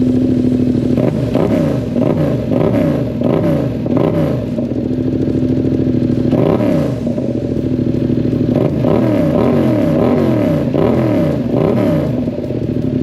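2022 Yamaha MT-07's parallel-twin engine running through a newly fitted aftermarket exhaust. It idles for about a second, then is revved in a string of quick throttle blips, the pitch rising and falling with each.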